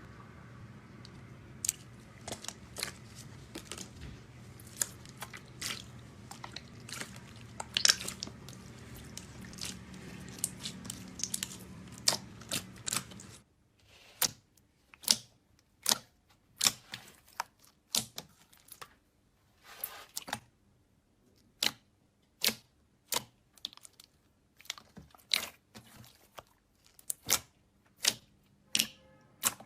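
Slime being pressed and worked by hand, giving crisp clicks and crackles. About halfway through the background hum drops away and the clicks come singly and evenly, a little more than one a second.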